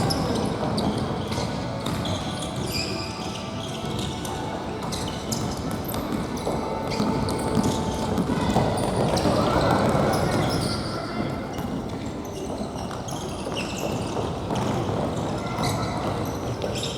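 Futsal ball being kicked and bouncing on a gym floor, with repeated sharp knocks and players' voices echoing in a large sports hall.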